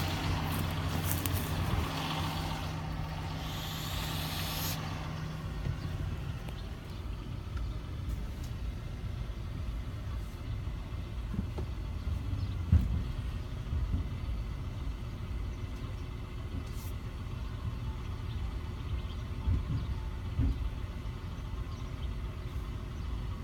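Motor vehicle running: a steady low engine hum and rumble, with a hiss that stops about five seconds in and a few faint knocks.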